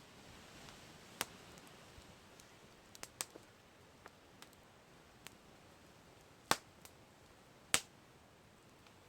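Campfire crackling: sparse sharp pops and snaps over a faint hiss, the two loudest pops coming in the second half, a little over a second apart.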